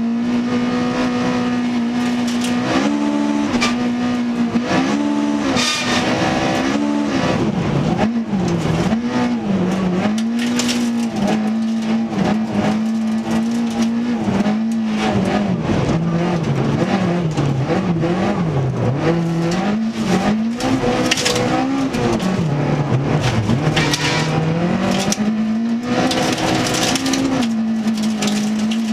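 Toyota Corolla FX-GT rally car's 1.6-litre twin-cam four-cylinder engine heard from inside the cabin, held at high revs at speed. Its pitch drops and climbs again several times through the middle as the driver lifts off and accelerates for corners, then holds steady near the end, with spells of hiss over it.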